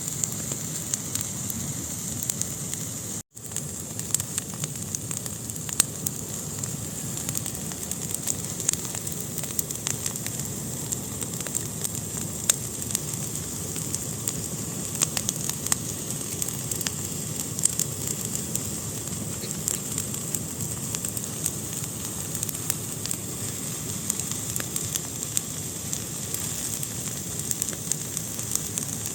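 Fire burning in a fireplace, crackling with frequent sharp pops over a steady hiss. The sound cuts out for a split second about three seconds in.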